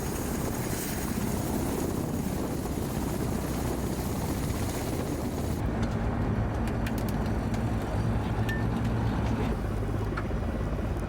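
Ka-52 attack helicopter's coaxial rotors and turbine engines running in flight, a steady drone. About halfway through, the high hiss drops away and a low hum comes to the fore.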